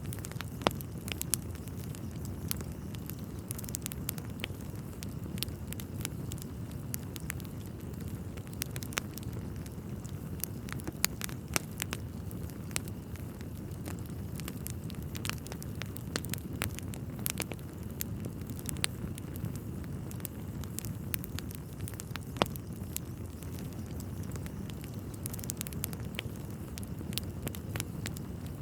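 Wood fire crackling steadily in a fireplace: scattered sharp pops and snaps over a low, even rush of burning logs.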